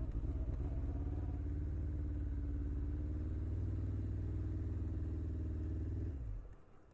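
Motorcycle engine idling steadily, then switched off about six seconds in, the sound dying away quickly.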